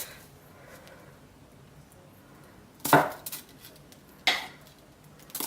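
A utensil knocking against the slow cooker's crock three times, each a short sharp clunk; the loudest comes about three seconds in.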